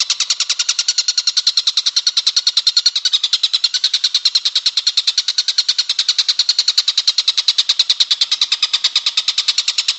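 Tengkek buto kingfisher call: a continuous, rapid rattle of sharp, high notes, about ten a second, running without a pause.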